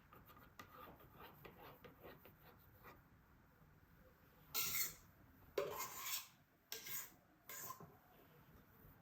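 A cake-decorating tool scraping in four short strokes in the second half, after a few faint taps and ticks.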